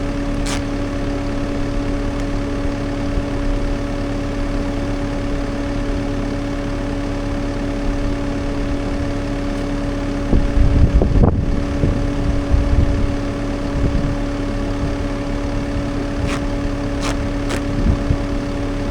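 CAT 299D3 XE compact track loader's diesel engine running steadily with a constant hum, swelling into a louder low rumble for a few seconds past the middle. A few sharp clicks sound near the start and near the end.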